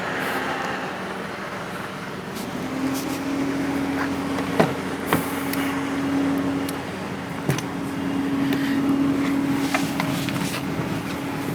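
Taxi running on the road, heard from inside the cabin: steady road and engine noise, with a level hum setting in about two and a half seconds in and a few light clicks.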